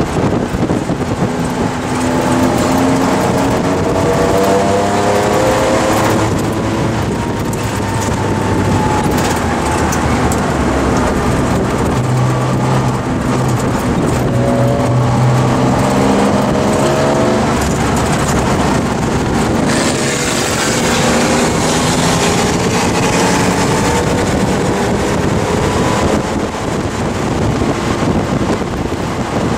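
1971 Porsche 911T's air-cooled flat-six engine at race pace, heard from inside the cabin. The engine pitch climbs repeatedly as the car accelerates and drops between climbs at shifts and braking, over loud wind and road noise.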